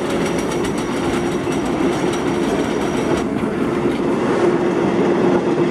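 Frisco Silver Dollar Line steam train rolling steadily along the track, a continuous rumble of wheels and cars with a faint held tone running through it.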